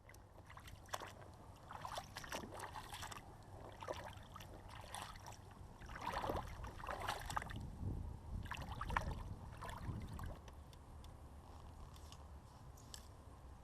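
Canoe out on the water: irregular paddle splashes and water sloshing, busiest over the first ten seconds and then dying down, over a low steady rumble.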